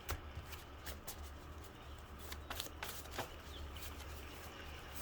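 Tarot cards being shuffled and handled: soft, irregular card clicks and slaps.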